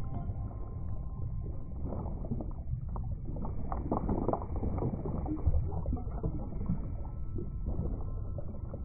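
Underwater ambience: a steady, muffled low rumble with irregular bubbling flurries, strongest around the middle.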